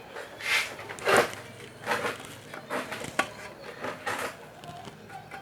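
Work on a TV circuit board: a series of short scraping and rustling noises from parts and tools being handled, with a sharp click about three seconds in.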